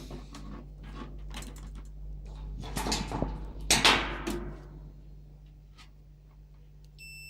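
Handling noise of multimeter probes being fitted onto a microwave oven's fuse: scraping and clicks, loudest about three and four seconds in. Near the end the multimeter's continuity beep starts, a steady high tone showing the fuse conducts.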